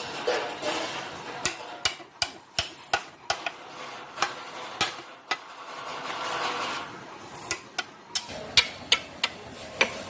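Metal tools clinking, tapping and scraping against a tiller's gearbox as a part is pried loose: irregular sharp metallic knocks with a couple of stretches of scraping.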